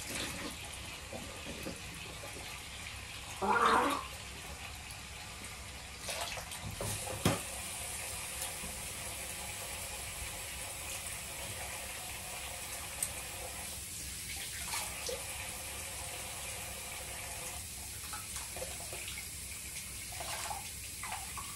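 Water running steadily from a bathroom tap into a sink, with a short louder sound about three and a half seconds in and a click about seven seconds in.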